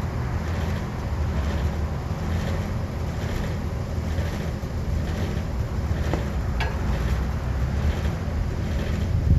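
Wind rumbling on the microphone, with a couple of faint clicks about six seconds in.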